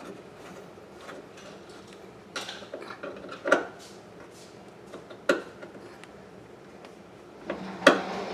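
Hard objects being handled, clattering and knocking, with three louder knocks: a few seconds in, about halfway and near the end. A faint steady hum runs underneath.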